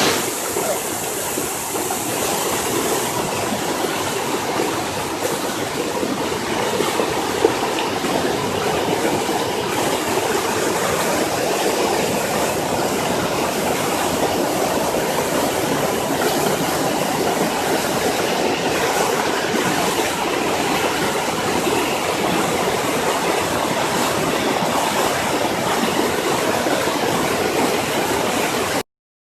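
Loud, steady rush of fast-flowing floodwater, an unbroken churning noise with no pauses.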